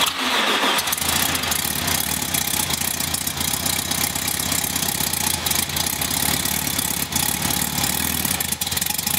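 Freshly rebuilt VW Beetle air-cooled flat-four engine running steadily on its first start after the rebuild, with oil pressure already primed by cranking without ignition.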